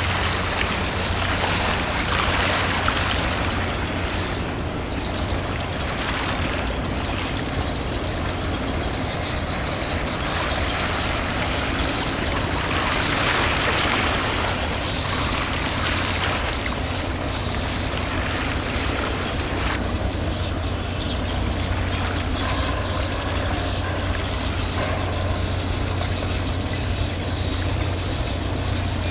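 Container ship passing, its engine a steady low drone under a rushing noise that swells twice, around two and thirteen seconds in.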